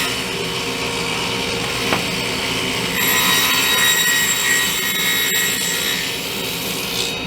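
Table saw running and cutting a dado into a wooden cabinet panel. The blade whine grows louder and brighter under load about three seconds in, and the high whine cuts off near the end.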